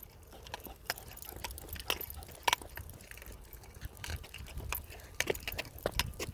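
Running footsteps through brush and grass: irregular crackles and clicks over a low rumble from the moving camera.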